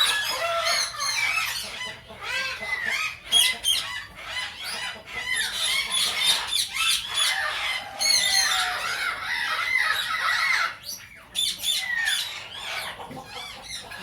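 A flock of aviary parrots, mostly Indian ringneck parakeets, squawking and chattering, with many short calls overlapping one another throughout.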